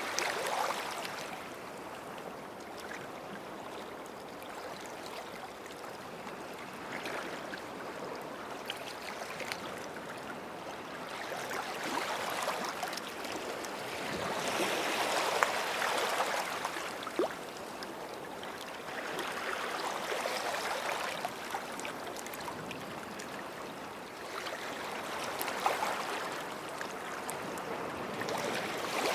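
Small sea waves washing up on a beach shoreline, each wash swelling and fading over a few seconds, with small crackles.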